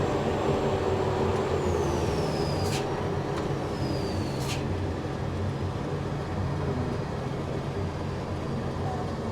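Cummins diesel engine of a self-propelled sprayer running steadily at road speed, heard from inside the cab. Twice a faint high whine drops in pitch and ends in a sharp click.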